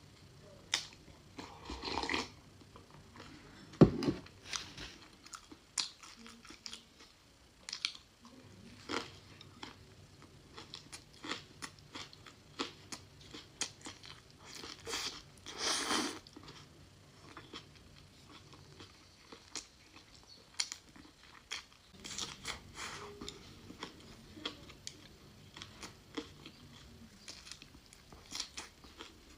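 Close-miked eating of spicy rice noodles with tofu skin: chewing and biting with many small wet clicks. There are longer noisy swells about two and sixteen seconds in, and one sharp knock about four seconds in, the loudest sound.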